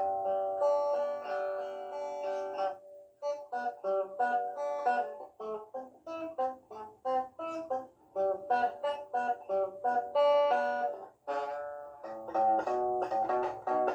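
Instrumental music on a plucked string instrument like a guitar, picking a quick run of single notes and chords, with two brief pauses.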